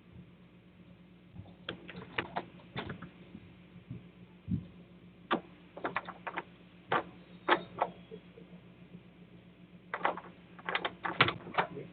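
Irregular sharp clicks and taps in short clusters over a steady low hum.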